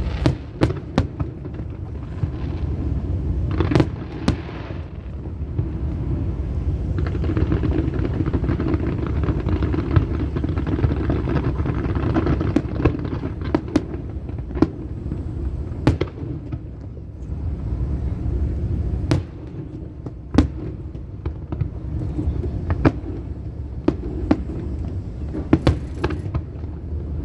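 Fireworks display: aerial shells bursting in sharp bangs at irregular intervals, a dozen or more, over a steady low background rumble.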